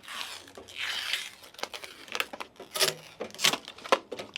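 Protective plastic film being peeled off: a rustle of peeling film at first, then crinkling with a series of sharp crackles.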